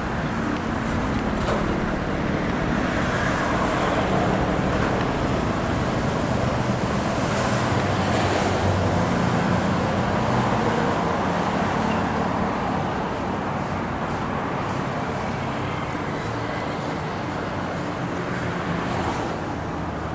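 Continuous expressway traffic, with the low engine drone of heavy trucks going by. It swells in the first half and eases off toward the end.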